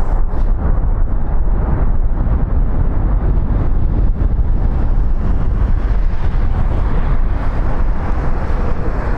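Strong wind buffeting the microphone: a loud, continuous rumbling gusty roar, heaviest in the low end.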